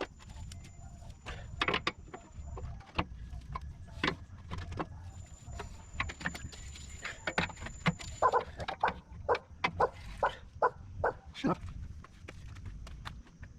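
Hand tools working the rusted bolts of a Jeep fuel-tank skid plate: a string of sharp metallic clicks and knocks, settling into about two strikes a second in the second half.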